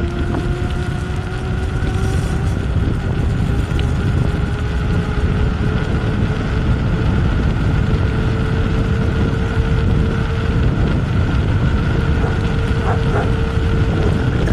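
Wind buffeting the microphone while riding a bicycle, a loud low rumble, with a faint whine that rises slowly in pitch.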